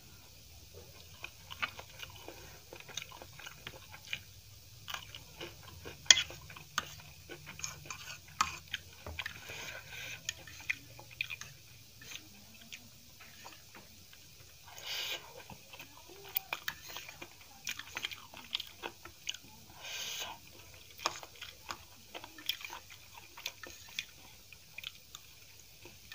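Close-up chewing of instant noodles, with wet mouth sounds and many short, sharp clicks and smacks scattered throughout. There are a couple of longer noisy bursts about fifteen and twenty seconds in.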